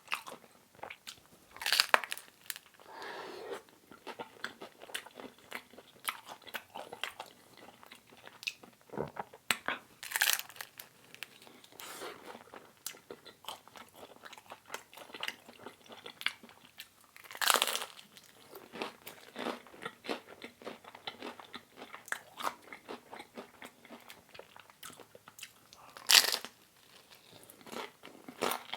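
Close-up eating sounds: a man biting and chewing thin-crust pizza, with loud crisp crunches about 2, 10, 17 and 26 seconds in, and quieter wet chewing clicks in between.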